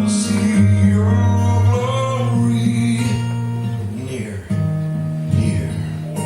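Worship music on an acoustic guitar, strummed in slow, held chords that change about four and a half seconds in.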